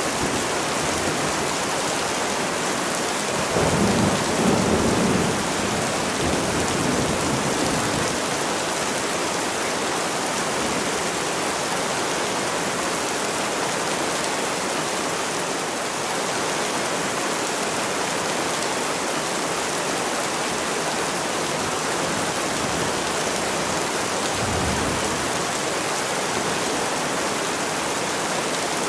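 Steady heavy rain hissing, with a low roll of thunder about four seconds in and another shorter one near the end.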